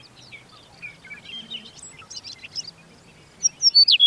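Songbirds chirping, many short, quick sweeping calls overlapping, growing much louder near the end.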